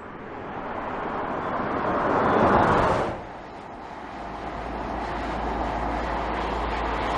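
Electric Audi e-tron GT quattro rolling past, mostly tyre and wind noise without engine sound, swelling to a peak and cutting off suddenly about three seconds in. A steadier rolling noise with a low hum follows.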